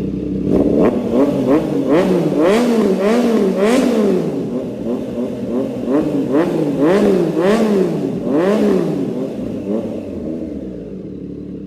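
Triumph Trident 660's inline-three engine revved through a full aftermarket loop exhaust with a resonator: about a dozen quick throttle blips, each climbing and falling back, then settling to idle near the end.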